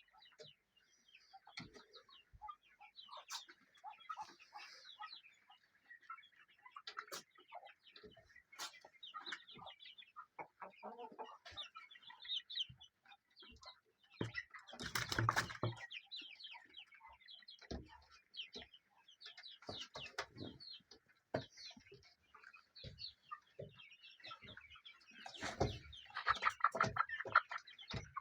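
Domestic chickens clucking and calling in many short, overlapping calls, with a louder flurry about halfway through and another near the end.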